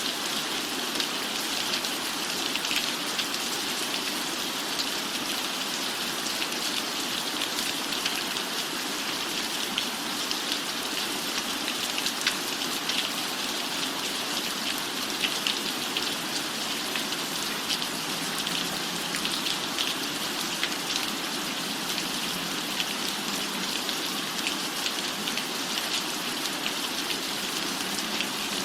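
Steady rainfall pattering on a cabin roof, an even hiss dotted with many sharp individual drop taps.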